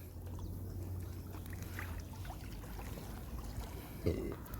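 Water trickling and splashing as a fishing net is hauled out of the water by hand, over a steady low rumble. There is a short knock about four seconds in.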